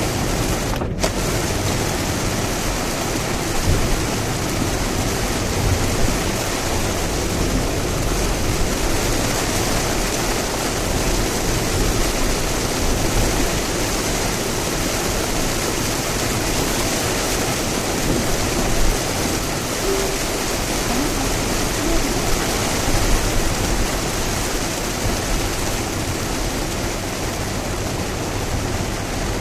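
Steady rush of heavy typhoon rain and tyre and road noise from a Lexus RX driving at speed on a rain-soaked expressway. The sound drops out for a split second about a second in.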